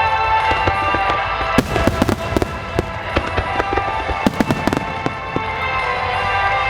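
Aerial fireworks bursting and crackling over music that plays throughout, with dense clusters of sharp crackles about a second and a half in and again around four and a half seconds.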